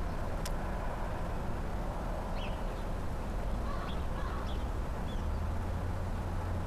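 A few faint, short bird chirps scattered over a steady low outdoor rumble, with one sharp tick about half a second in.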